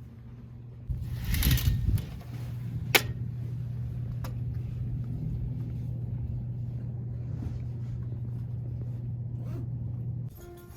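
Steady low rumble of a moving vehicle, with a brief rustle about a second in and a sharp click at about three seconds, followed by a fainter one a second later.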